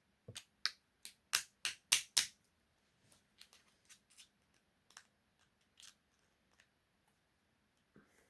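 A run of sharp clicks and taps from small hand tools, pliers and a screwdriver, working against the hard parts of an RC car while trying to free a stuck screw. The clicks come quickly at first, about eight in two and a half seconds, then thin out to scattered lighter ticks.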